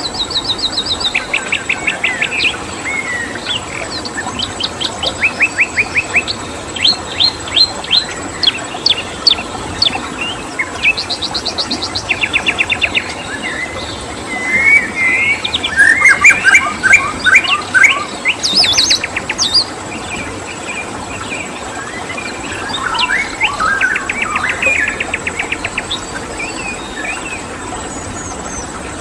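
Several songbirds singing and calling, mostly in quick trills of evenly spaced chirps, busiest and loudest about halfway through. A steady high-pitched insect tone and a constant background hiss run underneath.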